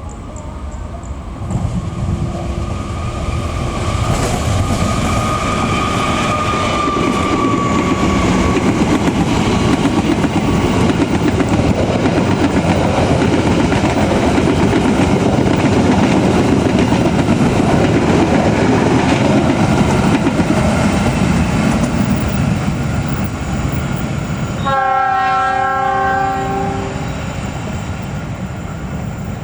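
A train passing close, its wheels and cars making a loud, steady rush of rail noise for about twenty seconds. Near the end a train horn sounds one steady chord for about two seconds.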